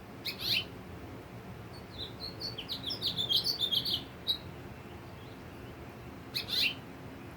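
A finch singing: a short sliding call, then about two seconds of quick, varied warbling notes, and another short call near the end.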